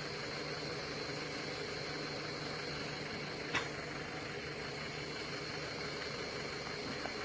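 Pickup truck engine idling steadily, with one short sharp click about three and a half seconds in.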